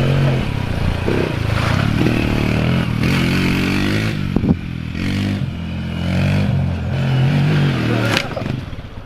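Honda TRX 90 quad's small single-cylinder four-stroke engine under a rider, revving up and easing off several times in repeated surges. There are two sharp knocks, one about halfway through and one near the end, after which the engine note drops away.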